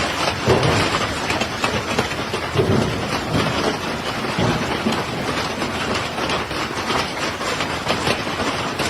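Steady rushing noise of heavy rain and floodwater.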